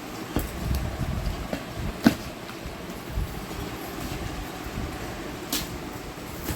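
Handling of a large cardboard box: uneven scraping and rumbling with a few sharp knocks, the loudest about two seconds in.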